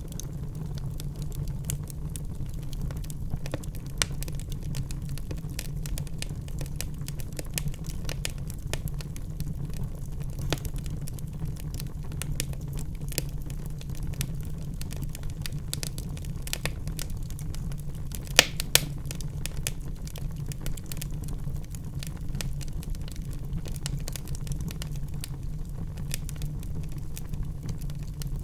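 Wood fire crackling in a fireplace: many small pops and snaps over a steady low rumble, with two louder pops close together about eighteen seconds in.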